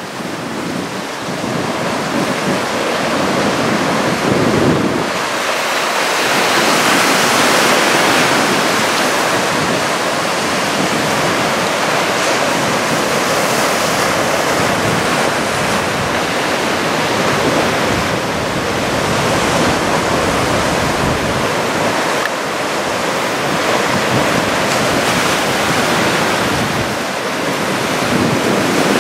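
Ocean surf from a waist-high typhoon swell breaking and washing in, swelling and easing, with wind buffeting the microphone.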